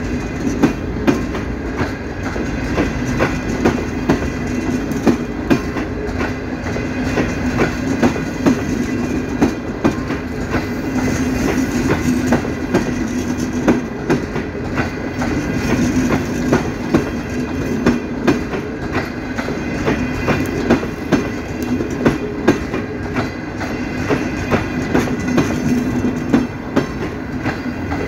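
CNR passenger coaches rolling past at close range, their wheels clicking over the rail joints in a continuous clickety-clack over a steady hum and rumble.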